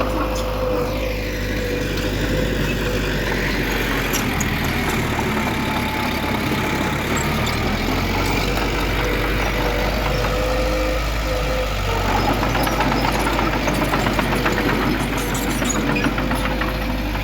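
Heavy diesel engine of earthmoving machinery running steadily, with a steady whine along with it.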